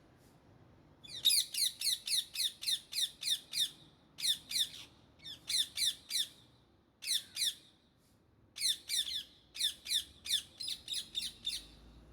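Indian ringneck parakeet calling: rapid series of harsh, high screeching notes, about four a second, in several runs broken by short pauses.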